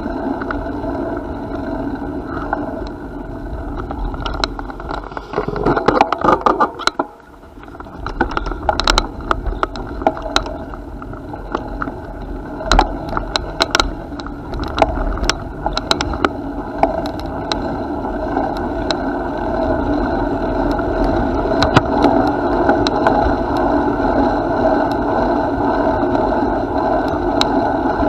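Bicycle being ridden along a path: a steady rolling rumble of tyres and drivetrain with scattered clicks and rattles from bumps. The noise briefly drops away about seven seconds in, then returns.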